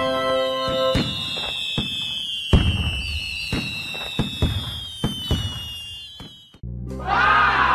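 Fireworks sound effect: several high whistles gliding slowly downward over a string of sharp bangs and crackles, stopping abruptly about six and a half seconds in. A chiming music cue starts just after.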